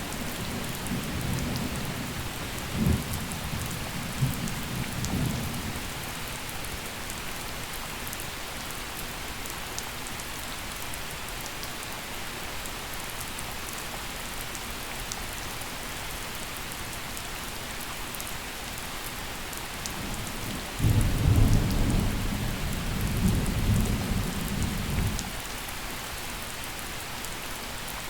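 Steady gentle rain with thunder: a low rumble fading over the first few seconds, then a louder peal that starts suddenly about two-thirds of the way in and rolls for about four seconds before dying away.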